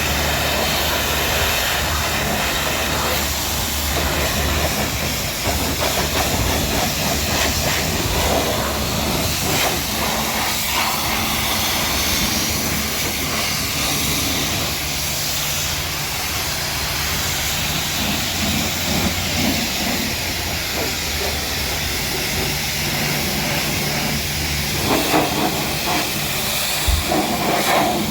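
Pressure washer spraying water in a steady hiss, with the steady low hum of its pump motor underneath; the spray sound turns louder and more uneven near the end.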